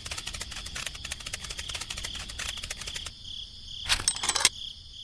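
Crickets chirping: a fast, steady, high-pitched trill. After about three seconds it thins out, and two short knocks follow about four seconds in as a hand handles a plastic roller.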